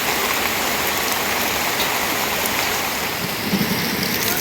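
Heavy rain falling steadily, an even hiss of drops with scattered faint patters.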